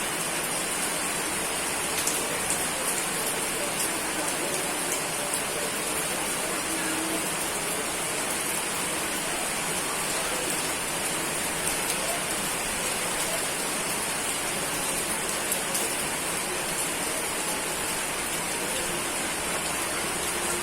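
Steady, heavy rain falling on surfaces, an even hiss with scattered sharper drop ticks.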